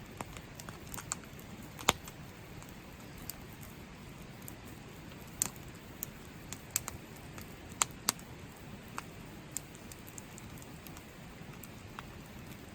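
Rain falling, a steady hiss with scattered single drops pattering and ticking sharply at irregular intervals.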